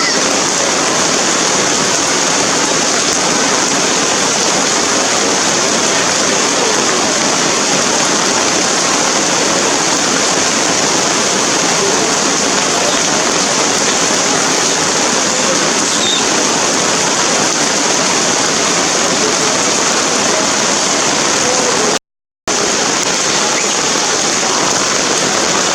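Heavy rain falling in a steady, even downpour, cut off for about half a second near the end.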